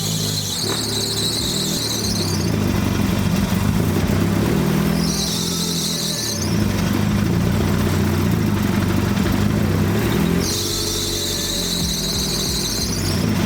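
Engine of a turbocharged 1.8 Chevy Cruze running while its accessory drive belt squeals three times, a long squeal at the start, a short one in the middle and another long one near the end. The belt is slipping and burning because it is a little too short and was not seated properly.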